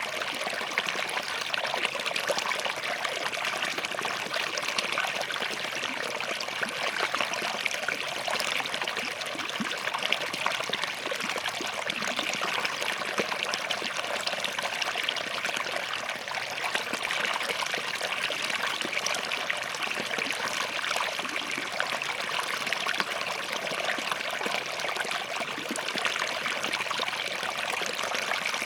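Small forest stream flowing and trickling between rocks, a steady babble of running water.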